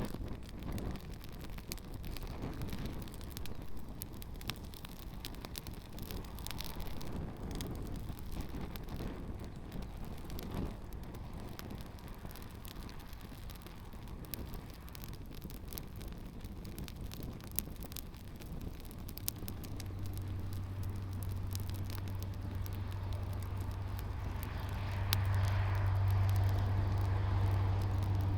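Campfire crackling and popping with shoes burning in it, with wind noise. About two-thirds of the way through, a steady low hum joins and grows louder near the end.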